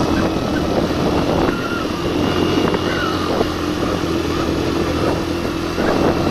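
Suzuki GN 125's single-cylinder four-stroke engine pulling steadily under load up a steep dirt climb with a passenger aboard. It is held at high revs because the thin air of the high páramo saps its power and it would otherwise stall.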